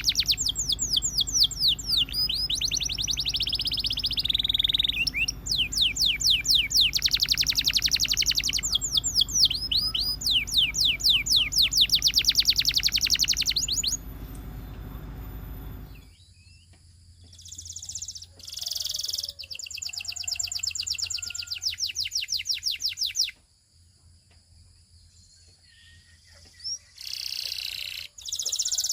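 Canary singing long, fast trills of repeated high sweeping notes, phrase after phrase with short breaks. About halfway through a low background hum drops away, and the song continues in shorter phrases with a quieter gap before a few brief bursts near the end.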